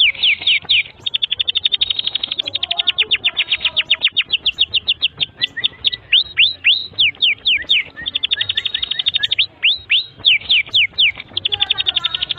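Domestic canary singing a long continuous song. Very fast high trills alternate with runs of slower, falling whistled notes, switching between the two several times.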